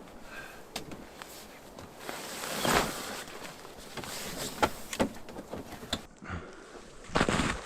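Footsteps in snow, uneven and irregular, with a few sharper knocks and scuffs mixed in.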